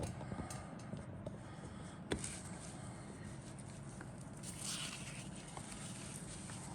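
Handling of a model kit box and its contents over a steady low room hum: one sharp click about two seconds in and a brief rustle near five seconds.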